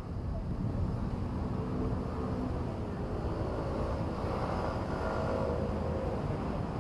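Steady low rumble of a passing vehicle, with a whining tone that rises and fades in the middle.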